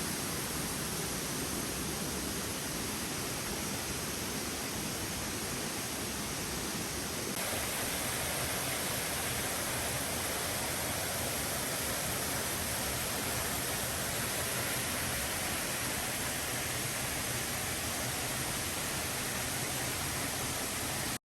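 Waterfall: a steady rush of falling water, slightly louder and brighter from about seven seconds in.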